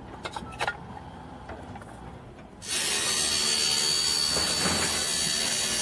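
A few light clicks, then about two and a half seconds in a power tool starts cutting with a loud, steady hiss and a high whine.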